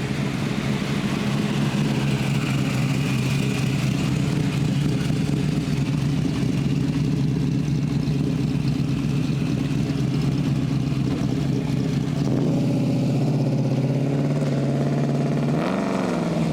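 A vehicle engine running steadily at low revs, with a brief rev near the end.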